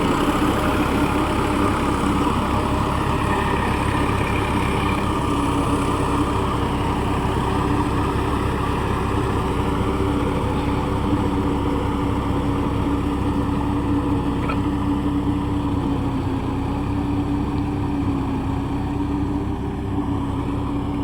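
Massey Ferguson 254 Dynatrack 4WD tractor's diesel engine running steadily under way, a continuous even drone.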